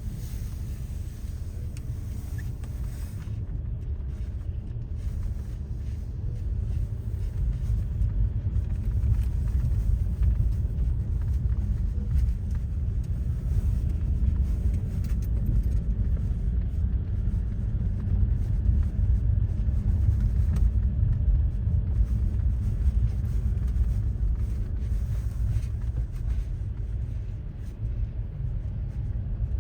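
Steady low rumble of a motor vehicle on the move, growing a little louder about eight seconds in.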